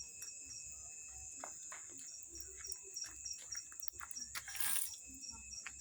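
Crickets chirping: a steady, high-pitched trill with an even pulse. A few faint clicks and a brief hiss come about three-quarters of the way through.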